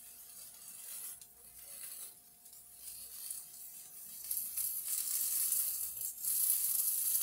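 Bell pepper, onion and tofu skewers sizzling on a hot griddle pan as they are turned. The sizzle is faint at first, grows louder about four seconds in, and louder again about six seconds in.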